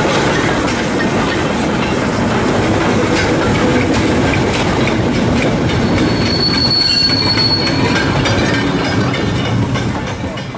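Railway goods wagons rolling past close by on jointed track: a steady rumble with wheels clicking over the rail joints, and a brief high-pitched wheel squeal a little past halfway. The sound fades out near the end.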